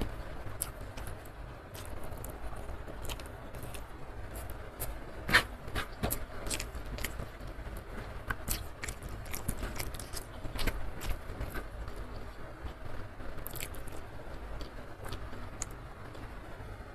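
Close-miked chewing and mouth sounds of someone eating rice and side dishes by hand, with irregular small clicks and crunches. One sharper click about five seconds in stands out.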